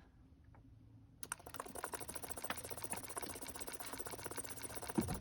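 A home-made 12-volt two-solenoid, four-piston solenoid engine starting up about a second in and then running with a steady, rapid clicking as its solenoids pull and release the pistons. A single low thud comes near the end.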